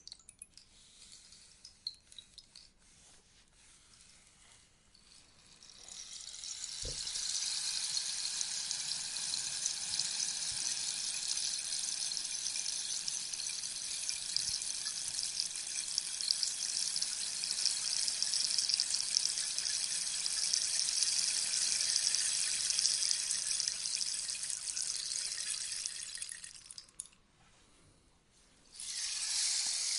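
Rainstick, its beads or pebbles trickling down through the tube: a few scattered ticks at first, then about six seconds in a dense, even pattering rush builds and runs for about twenty seconds before dying away. A new pour starts just before the end.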